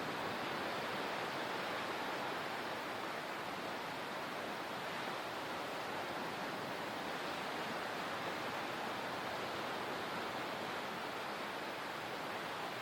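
Steady rushing water, an even hiss with no swells, breaks or separate sounds in it.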